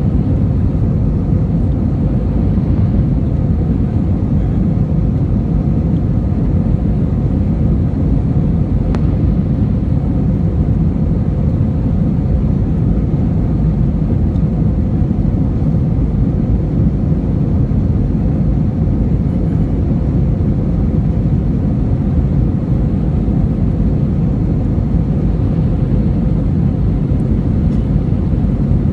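Steady low rumble of an airliner in flight, its engines and airflow droning evenly without change.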